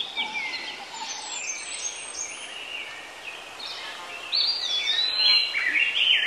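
Several birds calling at once: many short whistled notes sliding up and down and overlapping, growing louder a little past the middle.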